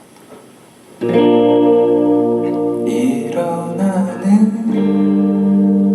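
Live band starting a song on guitar about a second in: chords struck and left ringing, changing a couple of times, with no vocals yet.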